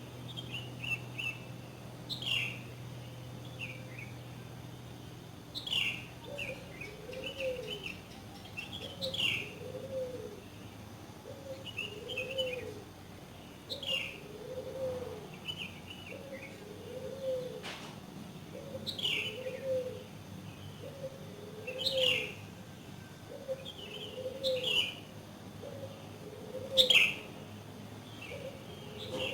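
Wild birds chirping, with sharp high downward calls every few seconds among shorter twittering notes. From about six seconds in, a lower call repeats roughly once a second.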